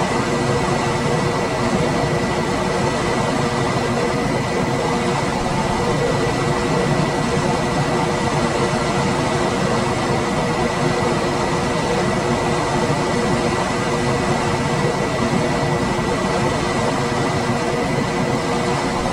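Room air conditioner running steadily: an even rush of fan noise with a faint constant whine and hum from its motor.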